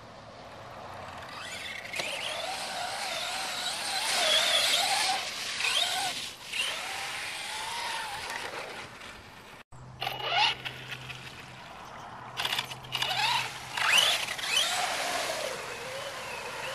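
Electric motor and gear drive of a Helion Invictus radio-controlled monster truck whining, the pitch rising and falling with the throttle, with a sudden break about ten seconds in.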